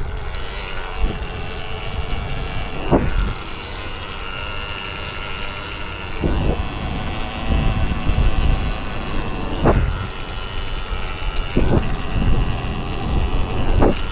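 Electric dirt bike being ridden over rough ground: a steady low rumble with a faint high motor whine, and about five sharp knocks spaced a few seconds apart.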